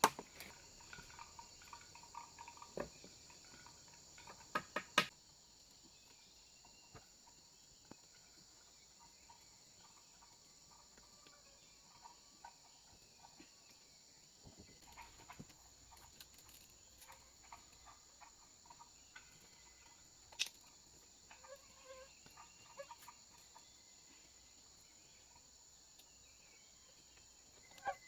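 A steady, faint, high-pitched insect chorus, like crickets, chirring without a break. Over it come a few sharp knocks in the first five seconds and another about twenty seconds in.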